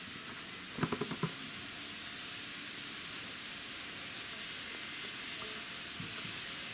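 N-gauge model train running on its track: a steady rolling hiss, with a quick run of about four sharp clicks about a second in and two softer ones near six seconds.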